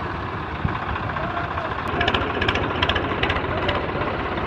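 Tractor engines running steadily with a fast, even low throb, with a run of sharp clicks from about halfway through.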